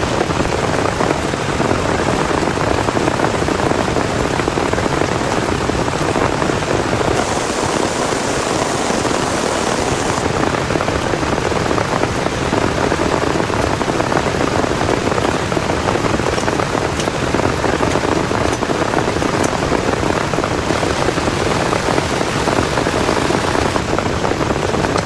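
Heavy rain falling steadily, a dense, even patter, with a brighter hiss for a few seconds about a third of the way in.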